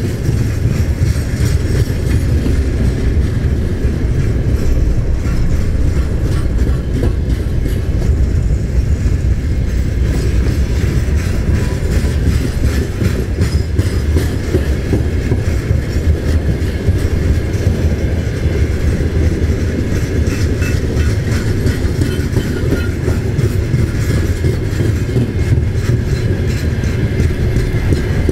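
Long freight train of tank cars, gondolas and boxcars rolling past at speed: a steady heavy rumble of wagon wheels on the rails with clattering over the rail joints.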